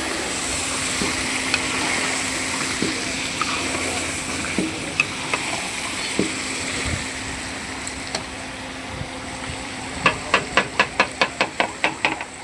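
Food frying in a pan with a steady sizzle and occasional scrapes and knocks. About ten seconds in, a quick even run of about a dozen sharp taps follows, roughly six a second.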